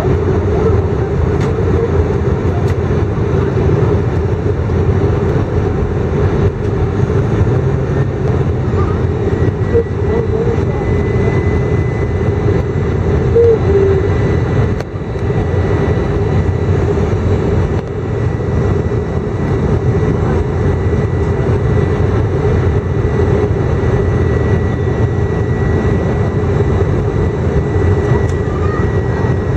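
Steady cabin drone of an Airbus A319 in flight on approach: engine and airflow noise, deep and constant, with a faint steady high tone coming in about a third of the way through.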